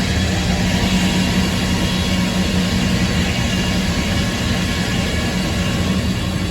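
Sawmill running steadily under load, its saw cutting the first board off a red oak log, with a strong hum from the power unit under the cutting noise.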